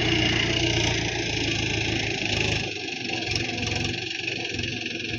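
Tractor engine running steadily; its low rumble drops away about two and a half seconds in and the sound grows quieter.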